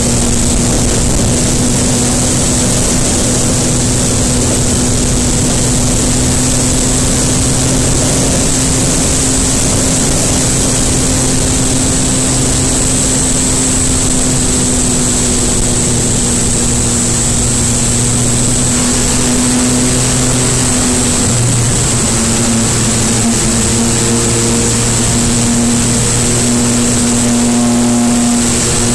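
MV Agusta Brutale 800RR's three-cylinder engine running steadily under way, over a wide rush of wind noise. About two-thirds of the way through, the engine note briefly shifts in pitch.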